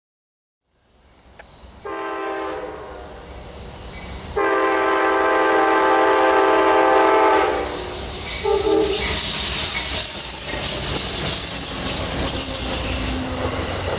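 Amtrak passenger train's horn sounded twice, the second blast longer and louder. The train then rolls past close by, with wheels clicking over the rail joints and a high steel hiss.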